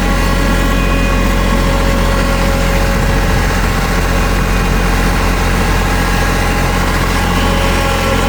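Tractor engine running steadily, with a strong low hum and several steady tones, while the tractor is worked on a pile of raked manure and debris.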